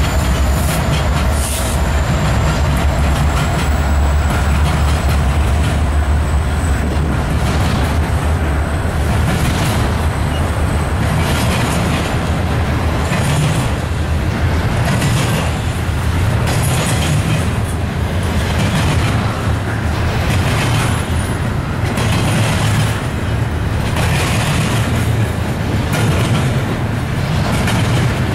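Diesel-hauled intermodal freight train passing close by. Its last locomotives go by at first with a heavy low rumble. Container and trailer cars then roll past with a steady rumble and wheel clacks over rail joints about every second.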